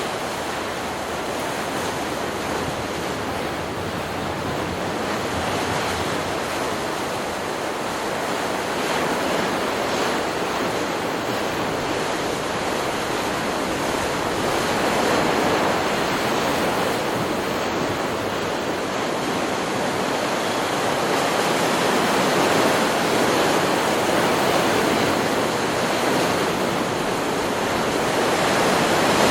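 Ocean surf: waves breaking and washing in a continuous rush, swelling and easing several times and growing louder near the end.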